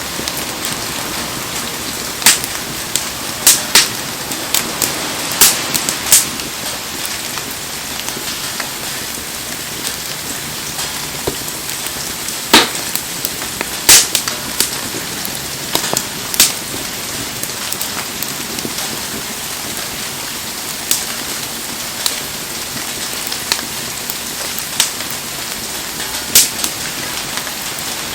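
Heavy rain hissing steadily over a wood bonfire, with sharp, irregular pops and crackles from the burning wood.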